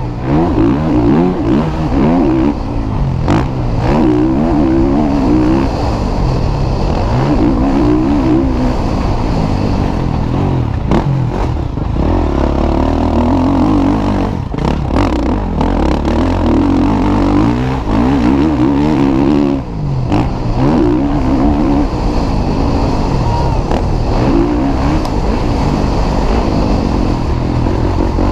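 Motocross motorcycles racing, their engines revving hard and easing off over and over, the pitch climbing and dropping as the bikes accelerate and shift through the gears. Several bikes overlap, with a few brief lulls.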